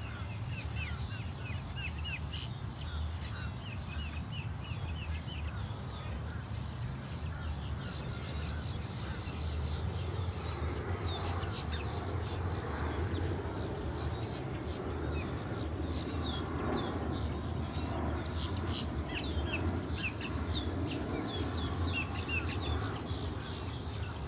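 A flock of wild green parrots chattering: many short, high squawks and chirps overlapping densely, over a steady low rumble.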